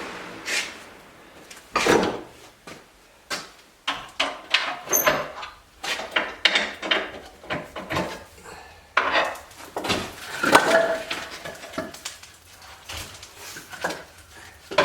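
Split firewood pieces clunking and clattering against each other as they are handled and piled, in irregular knocks.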